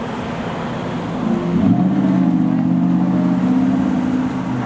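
A road vehicle's engine drone over traffic noise: its pitch rises about a second in, then holds steady and loud before easing near the end.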